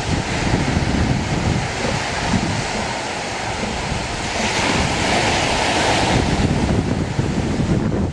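Ocean surf washing onto the beach, with wind buffeting the microphone; a wave surges louder and brighter from about four and a half to six and a half seconds in.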